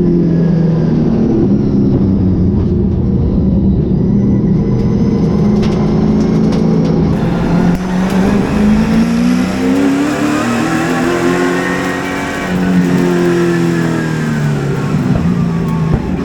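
Super late model race car's V8 engine heard from inside the car. It runs at a low, steady pace for several seconds, then revs up hard about eight seconds in as the field goes back to green on a restart. After that its pitch rises and falls as the car accelerates down the straight and lifts for the turn.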